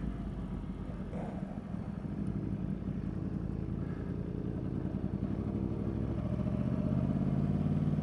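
Yamaha R1 sport bike's inline-four engine running steadily under way, with wind and road noise; its pitch climbs a little toward the end.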